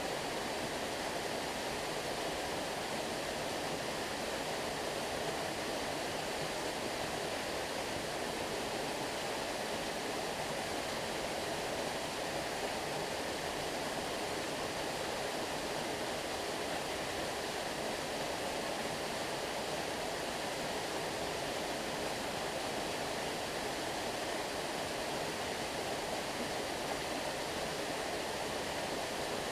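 Flowing stream water: a steady, even rushing that does not change.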